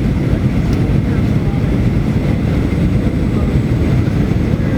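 Steady airliner cabin noise: a loud, even rumble of engines and airflow heard from inside the passenger cabin, with a faint steady whine above it.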